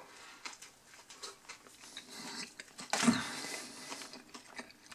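A person chewing a mouthful of hamburger, with many small wet mouth clicks and a louder noisy burst about three seconds in.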